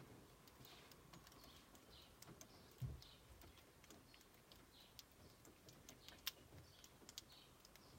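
Near silence, with faint scattered bird chirps and light ticks, and one soft low thump about three seconds in.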